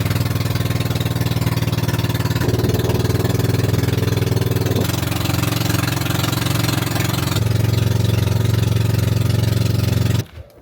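A motor vehicle's engine running steadily and loudly, in several cut-together stretches, each a little different in engine note.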